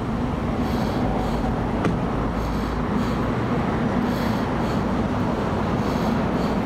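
A vehicle engine idling, a steady low rumble with a constant hum.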